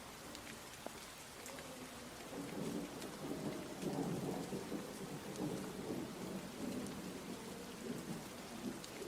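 Steady rain falling, with scattered drop ticks. A low rumble of thunder comes in about two seconds in and is loudest around the middle.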